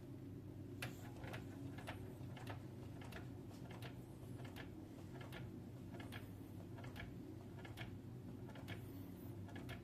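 Old Stirling engine running slowly, its mechanism clicking faintly about twice a second over a steady low hum.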